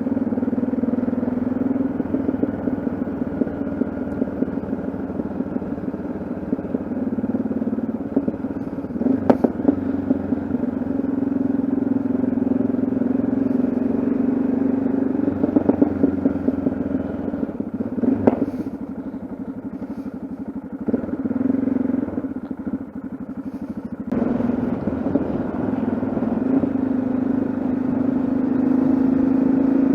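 Yamaha XT660Z Ténéré's single-cylinder engine running on the move, with a steady low drone. It eases off for a few seconds about two-thirds of the way in, then pulls again, with a few brief knocks along the way.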